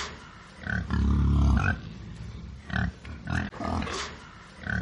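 Wild boar grunting: a string of short grunts with one long, loud grunt about a second in, the sequence starting over near the end.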